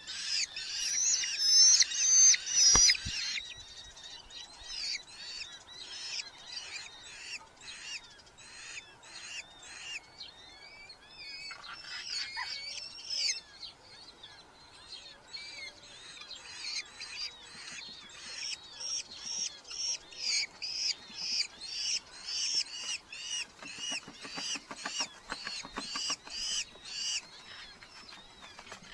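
Red-footed falcons calling: long runs of short, shrill, high notes repeated about two or three times a second, loudest in the first few seconds.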